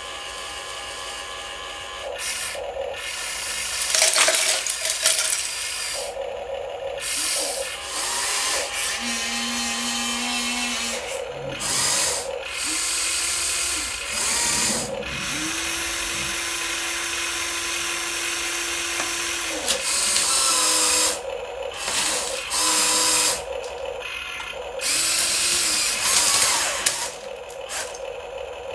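Electric motors and gearboxes of radio-controlled model construction vehicles whirring in repeated bursts of one to a few seconds, starting and stopping, some with a steady low hum underneath.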